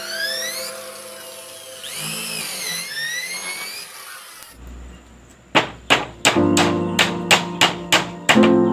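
Electric router running, its high whine dipping and rising in pitch as it cuts into wood, over background music. About halfway through the router stops and only the music is left, with sharp evenly spaced hits over held keyboard-like notes.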